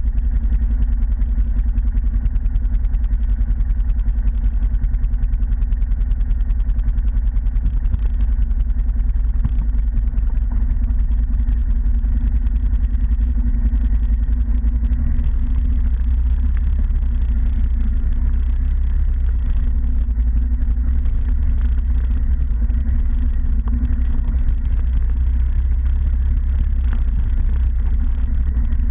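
ATV engine running steadily under way, a constant low, pulsing drone with no marked revving.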